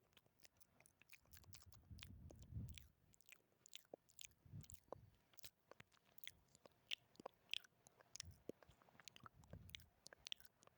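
Quiet, close-miked ASMR mouth sounds: a steady scatter of small wet tongue and lip clicks, with a few soft low swells between them.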